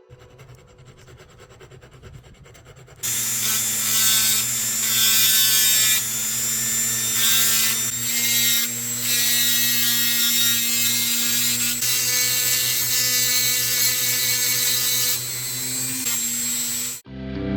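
A small handheld power tool running steadily and grinding into a hard surface, starting about three seconds in and cutting off suddenly near the end.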